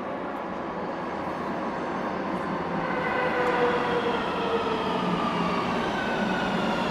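Subway train running, heard from inside the car: an even rumble and rattle with a whine of several tones that slides slowly down in pitch, growing louder from about halfway through.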